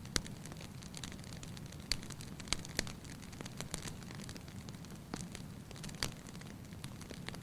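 Wood fire burning in a fireplace, with a steady low rumble and sharp irregular crackles and pops.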